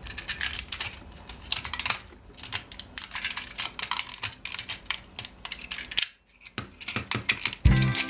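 Rapid, irregular clicks and taps of small hard plastic toys being handled, with a brief pause about six seconds in. Music comes in near the end.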